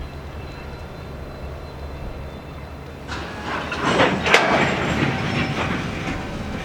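Diesel freight train moving past: a steady low engine rumble, then from about three seconds in a louder rush of wheel-on-rail noise that peaks a little after four seconds and eases off.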